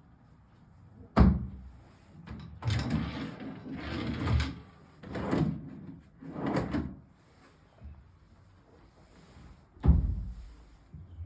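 Drawers and doors of a wooden wardrobe being opened and closed: a sharp knock about a second in, sliding rumbles over the next few seconds, and another sharp knock near the end.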